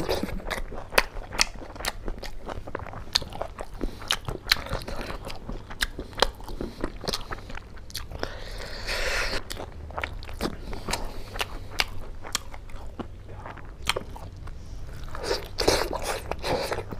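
Close-miked eating sounds: a man chewing a mouthful of pork curry and rice, with frequent sharp wet mouth clicks and smacks and bursts of crunching. A denser patch of crunching comes about halfway through, and a cluster of louder smacks near the end.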